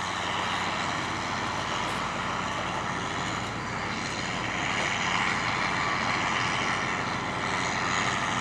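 Steady drone of a large farm tractor's diesel engine working in the field, with an even hiss over it and no change in pitch.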